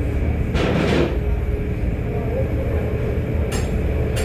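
Penn oscillating steam engine of a paddle steamer running, a steady low mechanical rumble with a hiss from about half a second to a second in and short sharp sounds near the end.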